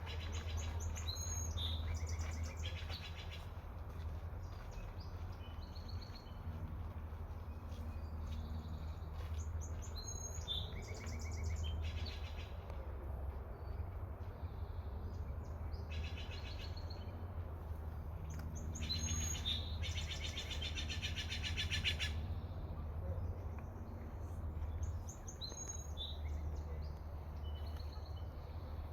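Birds calling in short, scattered bursts, several of them harsh and buzzy, over a steady low hum.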